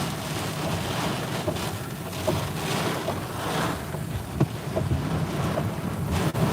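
Severe-storm wind and driving rain buffeting a pickup truck, heard from inside the cab as a dense, steady rushing with a few sharp knocks against the body.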